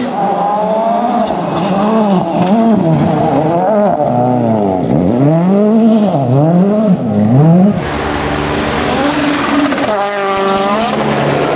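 World Rally Car engines, 1.6-litre turbocharged four-cylinders, revving hard, the pitch swinging up and down in quick rises and falls through gear changes and lifts. About 8 seconds in the sound changes abruptly to a rush of noise with a steadier engine note, then an engine climbs sharply in pitch.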